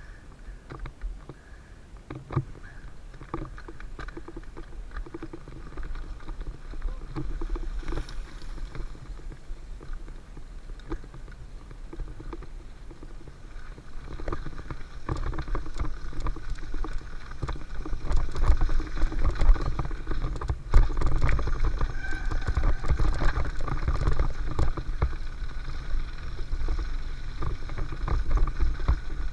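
Mountain bike riding down a dirt trail: tyres rolling over dirt and the bike rattling, with many short clicks over a low wind rumble on the microphone. It gets louder from about halfway through.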